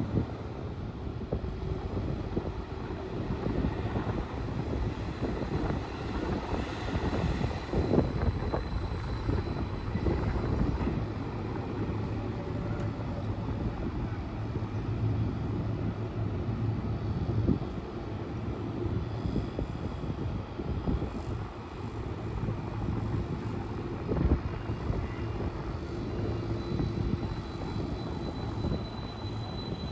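Train running through the station: a steady rumble of wheels on rail, with a faint high whine and a few louder knocks.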